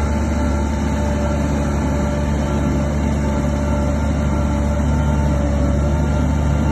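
Heavy earthmoving machine's diesel engine running steadily under load, a loud, even low drone.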